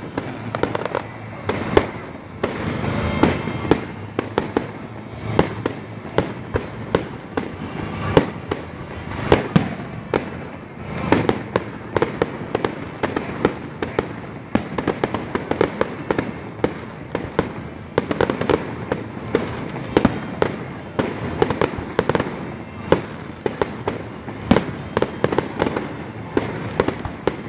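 Fireworks display: aerial shells bursting one after another in an irregular barrage of sharp bangs, sometimes several a second.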